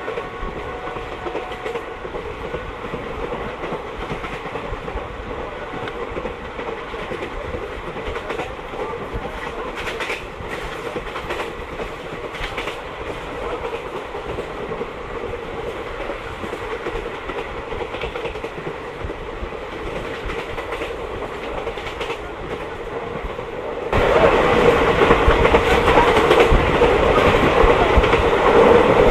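Passenger express train running at speed, its wheels clattering over the rail joints, heard from inside the coach. About 24 seconds in the sound suddenly becomes louder and brighter.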